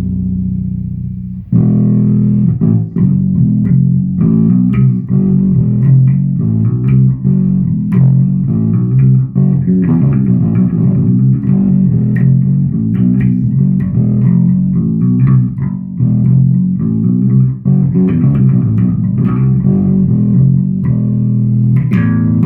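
Kramer 522s electric bass guitar being played: a held note ringing out, then from about a second and a half in a steady run of plucked notes that carries on throughout.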